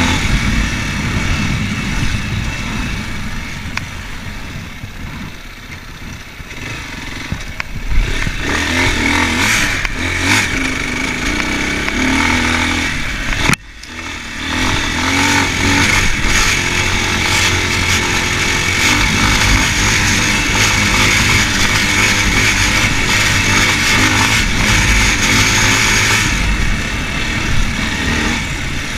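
Racer Panther 300 enduro motorcycle being ridden off-road, its engine rising and falling with the throttle under wind rush. The engine eases off for a few seconds early on, then picks up again with a knock, and the sound drops out briefly about halfway through.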